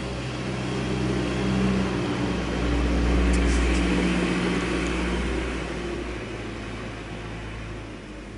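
A motor vehicle engine running with a steady low hum, growing louder to a peak about three to four seconds in, then fading away.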